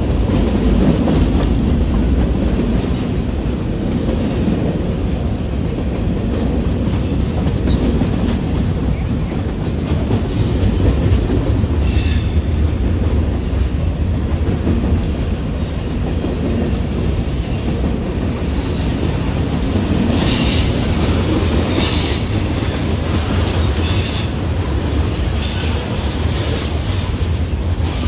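Freight train of covered hopper cars and tank cars rolling past: a steady low rumble of wheels on rail, with short high-pitched wheel squeals about ten seconds in and several more between twenty and twenty-five seconds in.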